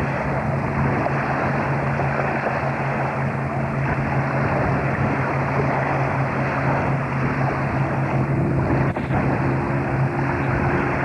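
A boat's engine running steadily with a constant low hum, under a heavy rush of wind and water noise. A second, higher steady tone joins in about eight seconds in.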